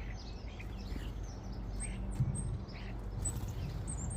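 Wild birds chirping: many short chirps, with a few thin high whistles, over a low steady hum.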